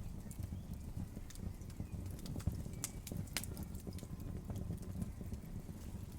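Campfire burning with a steady low rumble of flame and scattered sharp crackles and pops from the burning wood, two louder pops a little after three seconds in.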